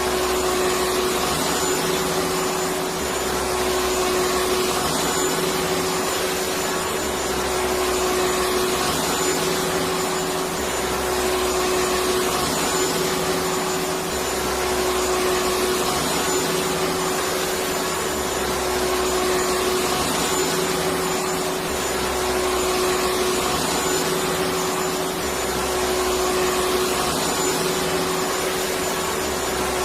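Electric vacuum cleaner running steadily: a constant rush of air with a steady motor hum, swelling slightly every few seconds.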